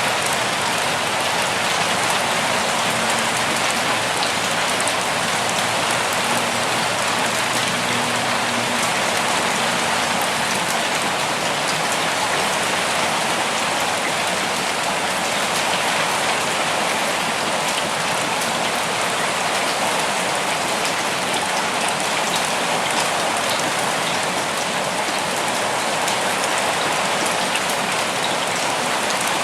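Steady rain falling in a forest: an even, unbroken hiss with scattered small drop ticks.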